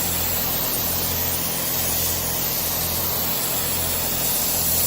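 Spray gun hissing steadily as paint is sprayed, over a steady low hum of machinery.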